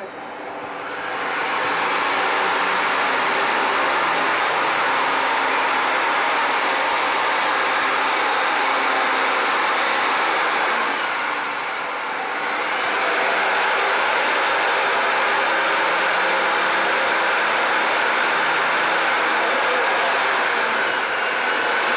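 Electric abrasive disc tool spinning up on steel, with a steady grinding noise and a high motor whine. The whine sags about halfway through and again near the end, then climbs back each time as the disc regains speed.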